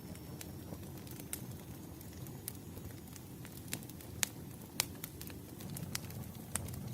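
Wood fire burning: a low steady rush from the flames with sharp, irregular pops and crackles from the burning logs, the loudest two coming a little after the middle.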